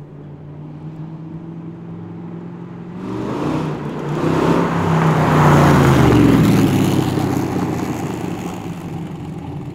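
1974 De Tomaso Pantera's Ford 351 Cleveland V8 running as the car drives past: the exhaust note builds as it approaches, is loudest about six seconds in as it passes, and fades as it pulls away.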